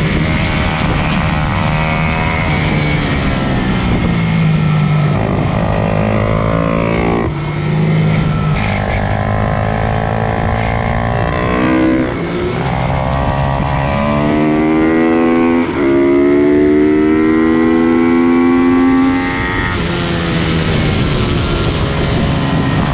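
Pit bike engines racing: several small motorcycles revving hard, their pitch climbing through each gear and dropping back as they shift or lift off, several times over. In the second half one bike holds a high, steady rev for a few seconds.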